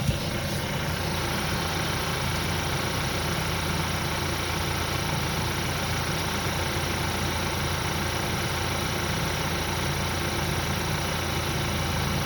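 2018 Chevy Equinox 1.5-liter turbocharged four-cylinder idling steadily on fresh oil, run after an oil change to check for leaks. There is one short click right at the start.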